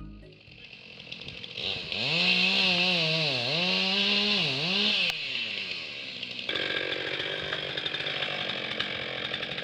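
Two-stroke chainsaw cutting through a fallen tree, running at high revs with its pitch dipping twice as the chain loads up in the cut. About two thirds in, it settles into a steadier running sound.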